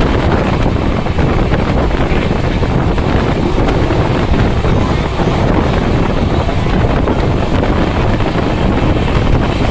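Steady, loud rumble of a moving passenger train heard from its open window, with wind buffeting the microphone.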